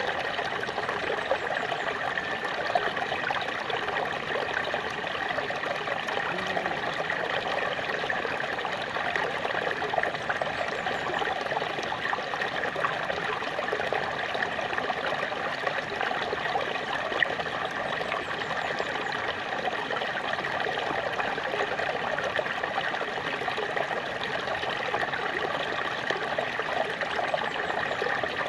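Small waterfall splashing and trickling steadily, with the sound centred in the middle and upper-middle range.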